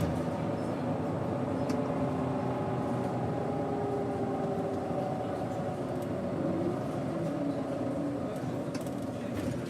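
Doosan GE12Ti turbocharged natural-gas engine of a 2007 Daewoo BS110CN bus running steadily, its pitch drifting slightly.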